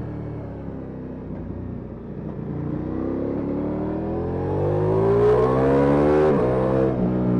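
Ducati Multistrada V4S Rally's V4 engine through an Akrapovic exhaust: the revs fall off on a closed throttle, then climb steadily under acceleration, getting louder, before dropping sharply at a gear change near the end.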